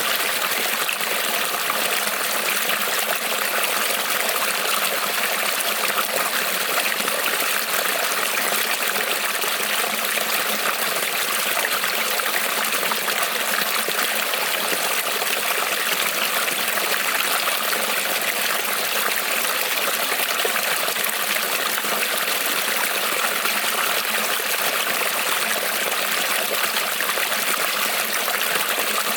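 Creek water rippling over stones: a steady, even trickling and splashing that does not change.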